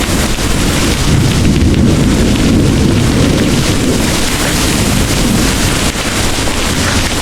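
Heavy rain pouring steadily, with a deep rolling rumble of thunder underneath that is strongest in the first few seconds and eases toward the end.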